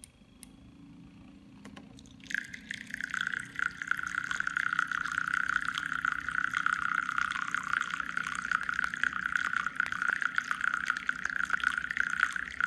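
Water splashing and trickling steadily, starting about two seconds in, over a faint low hum.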